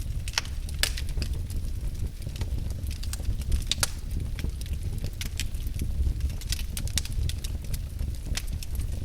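Wood fire burning in a fireplace: irregular sharp crackles and pops over a steady low noise of the flames.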